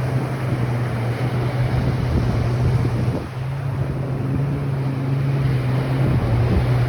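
Ocean waves washing on a beach, with wind buffeting the microphone and a steady low hum underneath that drops out briefly about three seconds in.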